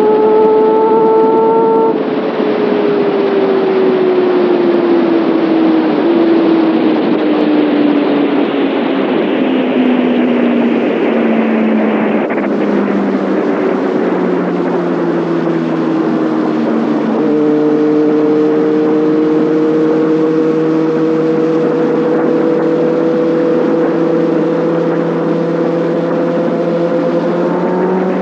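Kawasaki Ninja ZX6R inline-four engine and exhaust while riding, with wind rushing over it. The engine pitch falls steadily for about ten seconds as the bike slows, holds low, then from about two-thirds of the way in climbs gradually again.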